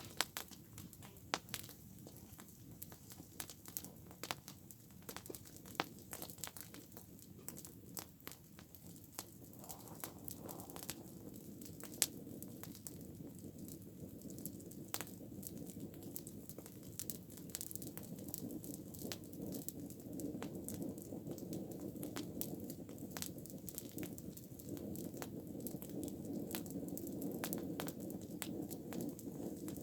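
Campfire crackling and popping with many sharp snaps, while a low rushing sound of the flames builds up over the second half and grows louder.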